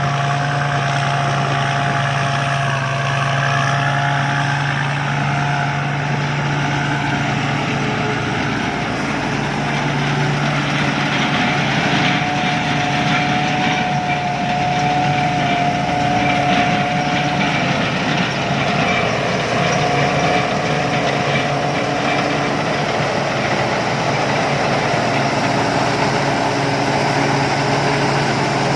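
Rice combine harvester running steadily, its diesel engine giving a constant drone with a high whine that wavers slightly in pitch.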